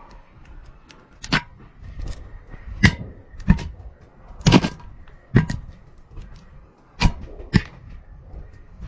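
A GoPro camera on a string bumping against the inside of a narrow pipe: about eight sharp, irregular knocks, with a faint ringing between them.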